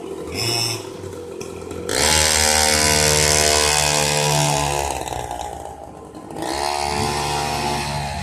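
Small motorcycle engine revving in surges. There is a short burst about half a second in, then a long loud run that eases off, drops away, and picks up again near the end.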